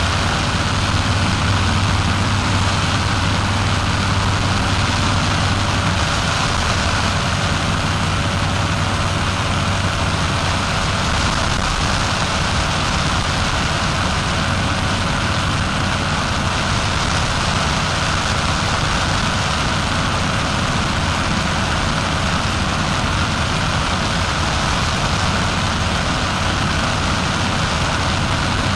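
Paramotor engine of a powered paraglider running at a steady throttle in flight, with a steady rushing hiss over it.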